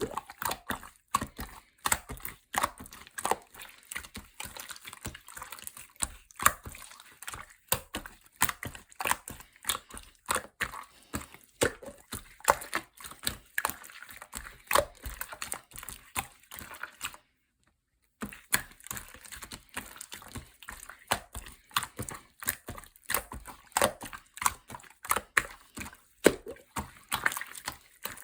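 Clear slime being squished and pressed by hand, giving a quick, irregular run of sticky clicks and pops. The sound drops out completely for about a second, some 17 seconds in.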